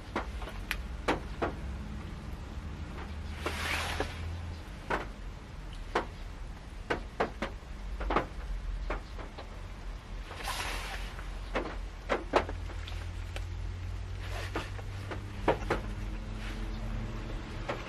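Scattered raindrops tapping on the roof of a parked Honda Step Wagon, heard from inside the cabin as irregular sharp knocks about once or twice a second over a low steady hum, with a few brief swells of hiss.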